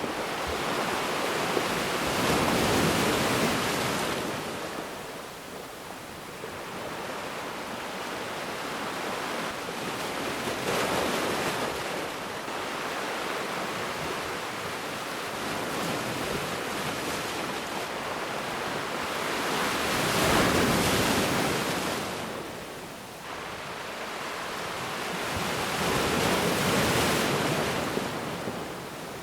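Ocean waves breaking and washing on a beach, a steady surf hiss that swells with each wave and ebbs between, with the biggest swells about every six to nine seconds.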